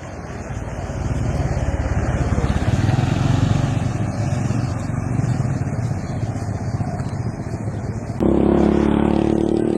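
An engine running, growing louder over the first second or so. About eight seconds in the sound changes abruptly and becomes louder and steadier in pitch.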